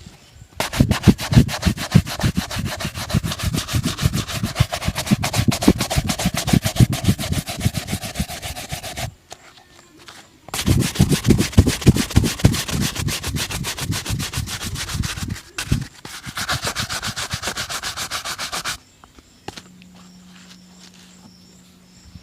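A shoe being brushed briskly back and forth with a shoe-shine brush during polishing: fast, even scrubbing strokes in three long spells with brief pauses between. It then stops, leaving a faint low hum near the end.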